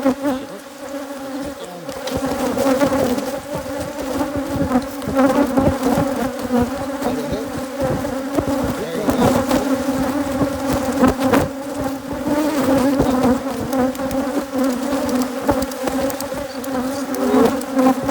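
Dense, steady buzzing of a large number of Africanized hybrid honeybees swirling around an open, disturbed hive. Irregular low thumps and rustles run underneath it.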